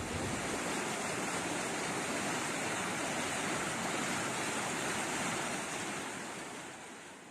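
Steady rushing water, fading out over the last second or so.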